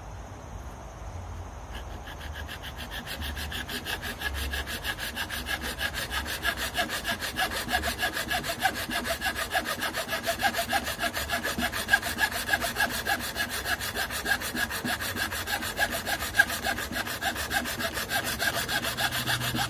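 Hacksaw cutting through the end of a shotgun buttplate in quick, even back-and-forth strokes. It starts about two seconds in and grows louder as the cut deepens.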